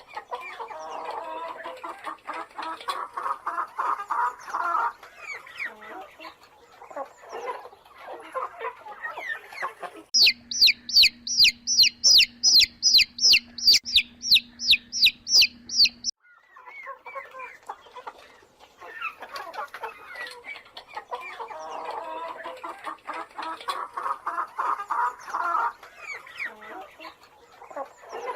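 A flock of chickens clucking and chattering. For about six seconds in the middle this gives way to a loud, rapid run of high chirps, about three a second.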